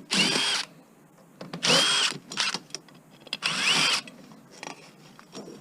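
Power drill-driver run in three short bursts, its motor whine spinning up and winding down each time, as screws are driven out of scrap metal.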